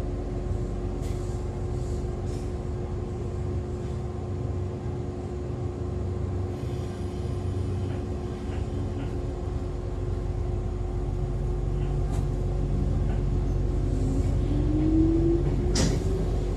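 Interior sound of an Echizen Railway MC6101-series electric railcar, a low steady hum with a few short clicks, then in the last few seconds the MT54 DC traction motors and gears pulling away with a whine that rises in pitch as the train gathers speed.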